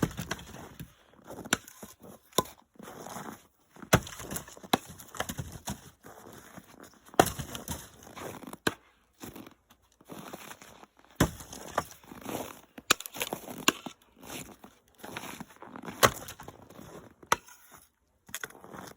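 Split firewood being handled and tossed with small pickaroons: irregular sharp knocks of wood striking wood, a second or several apart, with crackling and rustling between.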